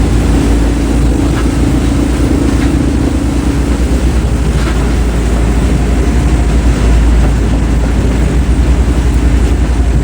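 Large industrial wood shredder running: a loud, continuous low rumble, with a steady hum over it for the first few seconds.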